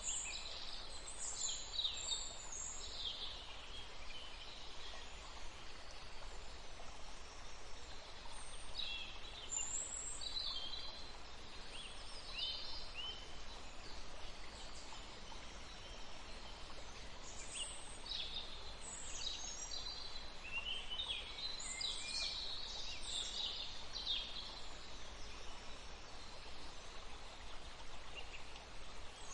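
Steady rush of running water, with small songbirds chirping in short sweeping calls on and off over it.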